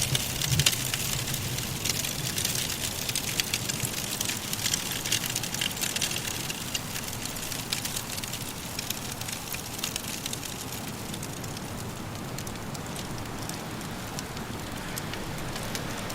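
Wood fire crackling in a fireplace, many small sharp pops and snaps over a steady soft wind hiss; the crackles grow sparser toward the end.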